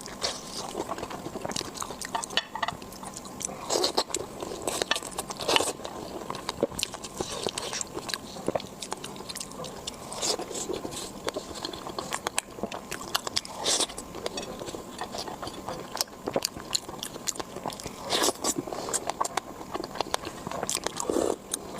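A person chewing and biting food, with frequent sharp crunches, clicks and wet mouth sounds.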